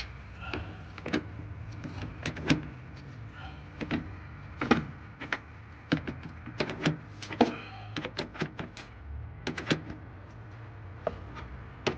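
Irregular sharp clicks and knocks of hand tools against metal, about one or two a second, as the last truck battery connection is tightened, over a steady low hum.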